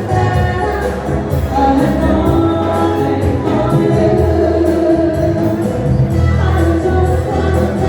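Dance-band music with a singer over a steady beat.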